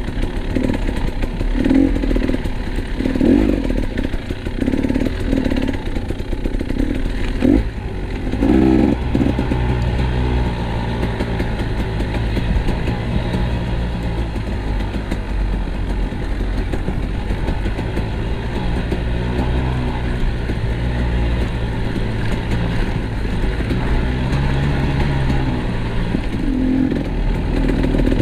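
KTM 250 EXC two-stroke enduro motorcycle engine running on a trail ride, uneven and pulsing for the first several seconds, then a steadier drone from about eight seconds in.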